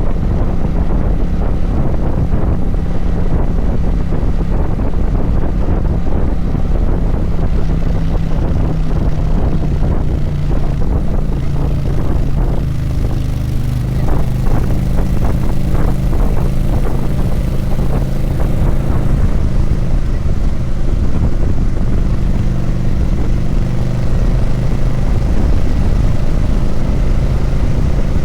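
Kawasaki Vulcan 900's V-twin engine running steadily at road speed, with wind rumbling on the microphone. The engine note drops and settles lower about ten seconds in. A run of short knocks comes through near the middle.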